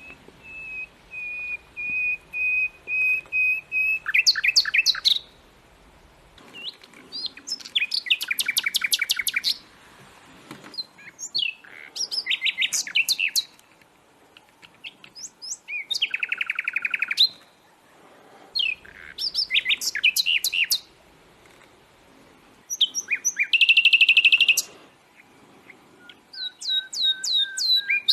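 A songbird singing a series of loud, varied phrases, one every three to four seconds. Each phrase is a rapid trill of high notes, and some open with a held steady whistle.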